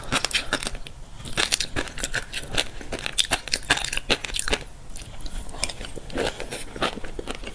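Close-miked chewing of fish roe: a dense, irregular run of small crisp pops and crackles as the eggs burst in the mouth.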